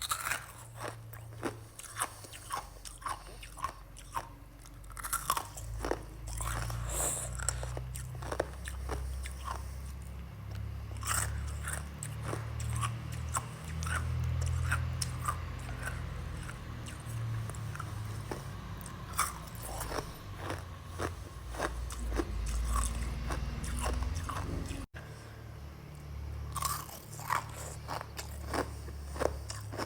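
Close-up crunching and chewing of freezer frost: many sharp bites and crunches at an uneven pace, with low chewing rumble between them.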